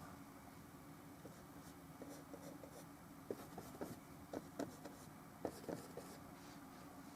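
Paintbrush working oil paint on a small canvas: faint, irregular short strokes and dabs, busiest from about two to six seconds in.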